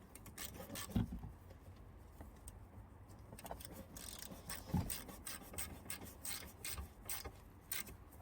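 Scattered light clicks and a few soft knocks, irregularly spaced, from tools and parts being handled during an oil change, over a low steady hum.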